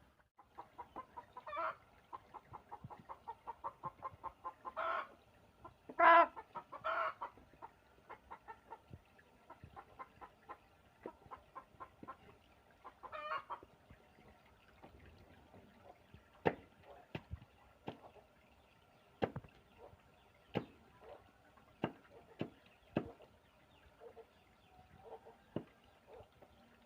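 Chickens clucking. A rapid run of clucks comes first, with several louder squawking calls in the first half. Later come sharp knocks about once a second.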